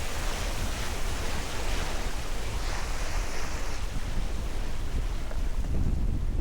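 Wind buffeting the microphone and water rushing past the hull of a sailboat under way: a steady rush with a heavy low rumble.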